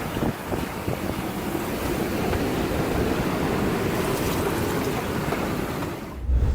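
Wind buffeting the microphone over rushing water and waves, with a heavy low thump near the end.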